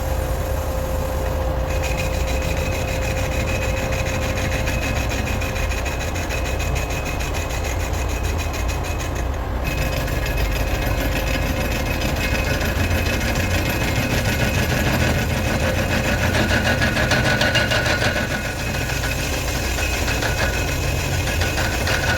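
Metal lathe running as it turns steel, a steady machine drone with a high whine and a scraping cutting noise that grows somewhat louder after the middle.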